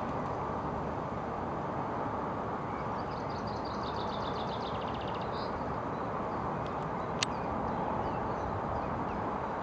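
A small bird sings a rapid run of high, repeated notes for about two seconds, starting about three seconds in, over a steady background of outdoor noise. A single sharp click comes near the end.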